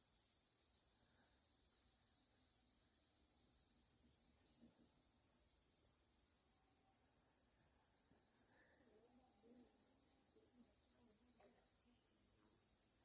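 Faint, steady high-pitched chorus of insects, with a fast even pulsing.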